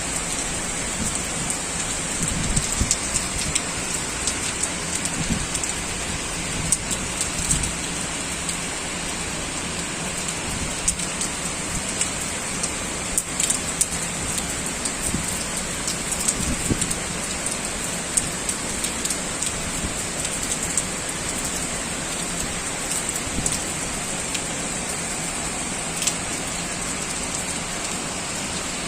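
Heavy typhoon rain falling steadily: a dense hiss with frequent sharp drop impacts on a nearby surface.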